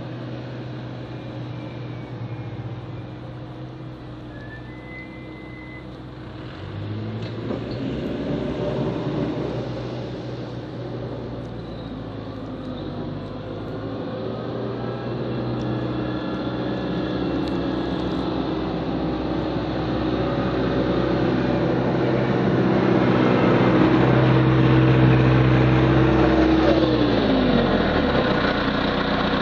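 Diesel engine of a snow-plowing work vehicle running under load. Its pitch and level step up about seven seconds in, it grows louder from about sixteen seconds, and its pitch drops near the end.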